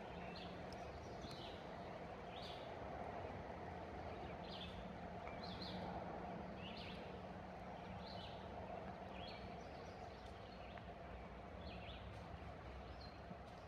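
A bird chirping repeatedly: short, high calls that drop in pitch, about one a second, over a faint steady background hum.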